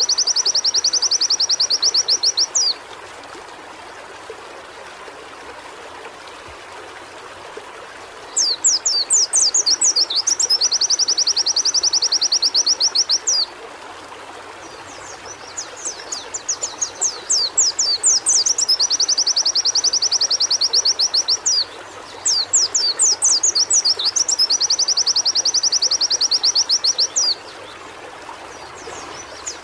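Pleci (white-eye) song in repeated bouts about five seconds long, each a run of quick, high downward-sweeping notes that runs into a fast, even trill, with short pauses between bouts, over a steady hiss.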